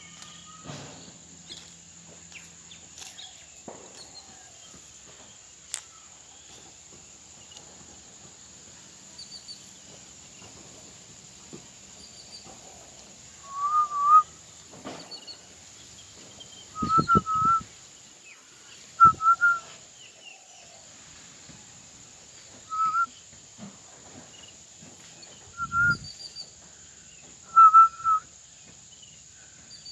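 A parrot whistling: about six short, wavering whistles, a few seconds apart, starting about halfway through. Behind them is a steady high hiss with faint scattered chirps.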